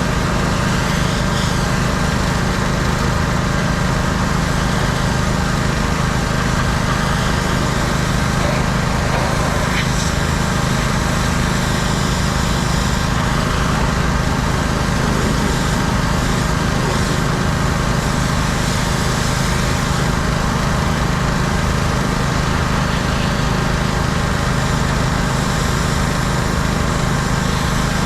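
A pressure washer's small engine running steadily at a constant speed.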